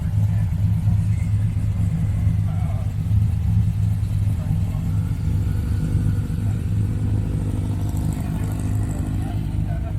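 A car engine running at low revs over a steady low rumble, its pitch rising gently about halfway through.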